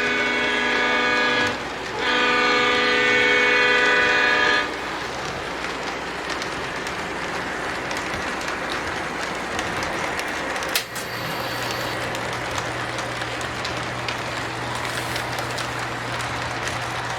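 Model Norfolk Southern Dash-9 diesel locomotive's onboard sound system sounding its multi-chime horn in two blasts, a short one then a longer one, followed by steady running sounds with light rail clicking as the model train moves. About eleven seconds in there is a sharp click, after which a low steady hum joins the running noise.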